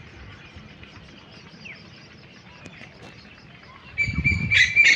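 Birds chirping faintly against outdoor background noise; about four seconds in, a loud, shrill, steady call starts close by and holds its pitch.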